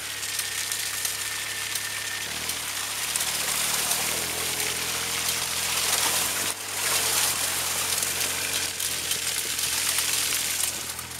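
A 1990 Pontiac Firefly's three-cylinder engine running under a loud, steady rush of water and slush spraying from its chained tires, with a brief break a little past the middle.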